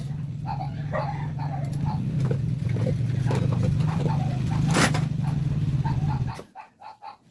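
Toyota Lite Ace engine running steadily on its overhauled carburetor, slowly getting louder, then shut off abruptly about six seconds in.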